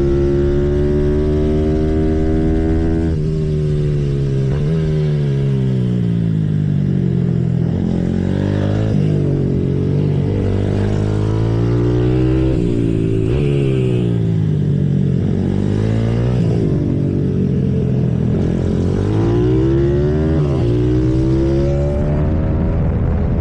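Symoto 140cc pit bike's single-cylinder four-stroke engine running hard on track, heard from onboard: the revs climb and drop again every couple of seconds as the throttle is opened and closed through the corners, with a sharp drop in pitch about three seconds in.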